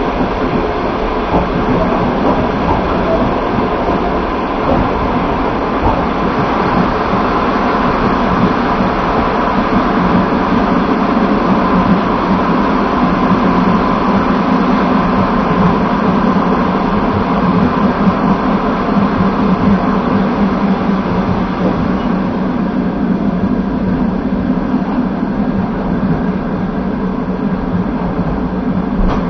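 Passenger train running at speed, heard from inside the carriage: a steady rumble and rush of wheels on rail, with a faint clickety-clack.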